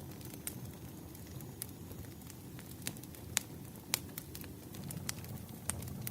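Wood fire crackling: scattered sharp pops and snaps over a low steady rumble, with two louder snaps a little past the middle.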